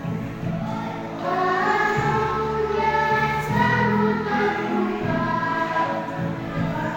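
A group of children singing together in chorus over an instrumental backing with a steady bass line.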